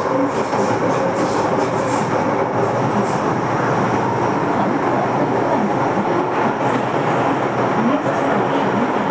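MTR M-Train electric multiple unit running steadily on the Kwun Tong line: continuous rumble of wheels on rail and traction equipment, with a faint steady whine that firms up near the end.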